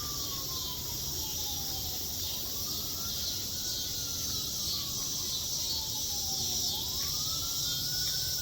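A distant emergency-vehicle siren on a slow wail, its pitch rising quickly and falling slowly, about once every three seconds. Under it, cicadas keep up a steady high buzz.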